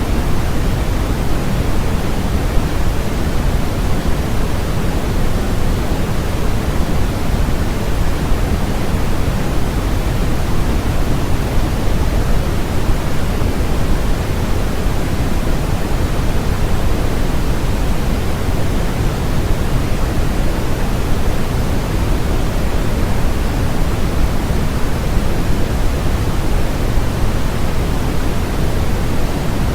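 Steady synthetic white noise, an even hiss with no change or rhythm, heavier in the low end than at the top, closer to pink noise.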